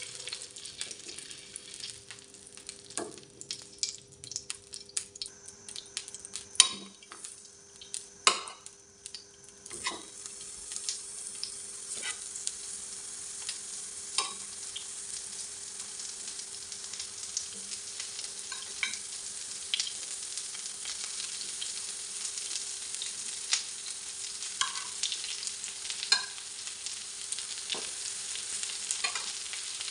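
Spice-coated eggplant slices frying in oil on a hot tawa griddle. Scattered taps and clicks over the first ten seconds or so, then a steady sizzle that fills in and holds.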